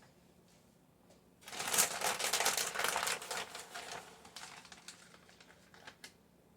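A burst of quick, dense crinkling and rustling, like packaging or foil being handled, starting about a second and a half in and thinning out over the next few seconds.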